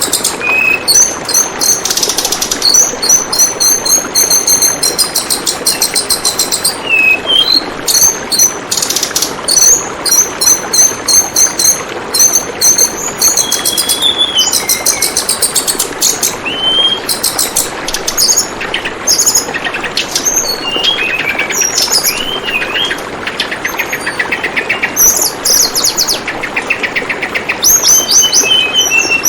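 A tledekan bambu bird calling over and over with high, rapid chirping trills and short whistled notes, over a steady trickle of running water.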